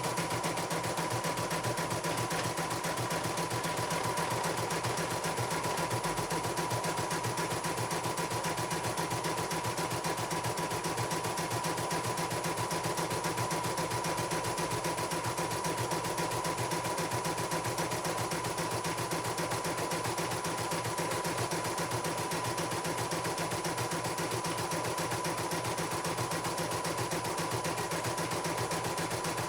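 Computerized embroidery machine stitching at speed: a rapid, even clatter of needle strokes over a steady whine from the motor, running smoothly throughout.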